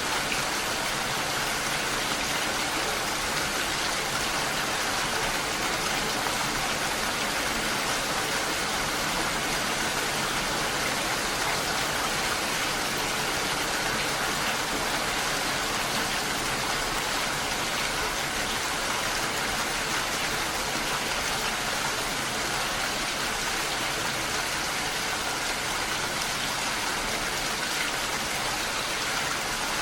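Steady rain falling, an even, unbroken hiss with no pauses or single drops standing out.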